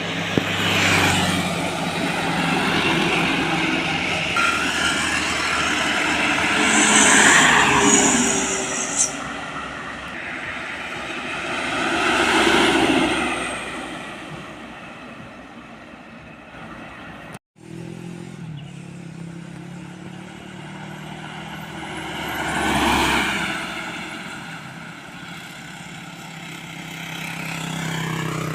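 Road traffic: trucks and other vehicles pass one after another, their engines and tyres swelling and then fading. About three passes stand out, and the sound drops out for a moment about two-thirds of the way through.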